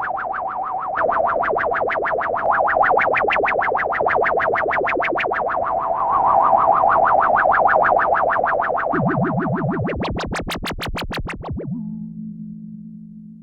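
Sequential Prophet-10 rev 4 analog polyphonic synthesizer playing a preset dry, with no effects: fast repeating pulsing notes, about seven a second, over a held tone. Near the end the pulses turn brighter, then give way to a low sustained chord that fades out.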